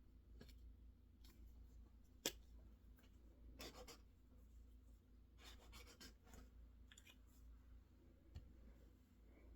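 Faint, sparse desk-work sounds over a low steady hum: one sharp click about two seconds in, then two short stretches of quick scratching or tapping strokes.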